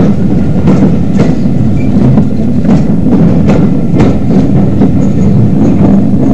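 Steam-hauled passenger coaches rolling past close by: a steady low rumble with irregular sharp clicks of the wheels over the rail joints.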